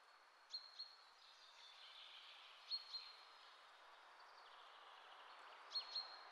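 Near silence with faint hiss, broken three times, about every three seconds, by a small bird's faint high call: two quick chirps and a short held note.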